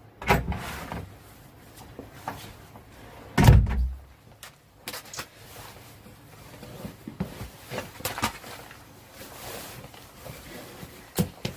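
Doors and cupboards being opened and shut: a knock just after the start, a heavier low thump about three and a half seconds in, then lighter clicks and taps.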